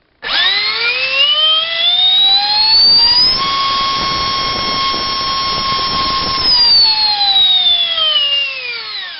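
64mm electric ducted fan driven by a GoolRC 2968 3800kv brushless motor, spooling up with a whine that rises in pitch for about three seconds. It then holds steady at high throttle for about three seconds and winds down with a falling whine near the end.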